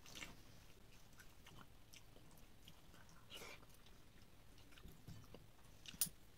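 Faint chewing of a person eating soft khichdi by hand, with small scattered mouth clicks and one sharper click near the end.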